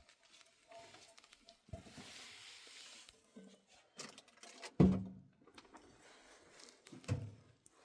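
Three dull knocks, about a second and a half in, near five seconds (the loudest) and about seven seconds in, with a short stretch of scraping after the first.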